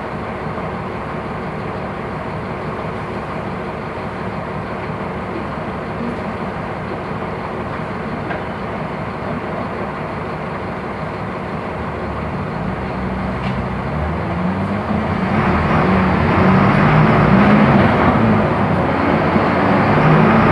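Mercedes-Benz OF-1418 bus diesel engine running steadily, then growing louder and fuller from about twelve seconds in.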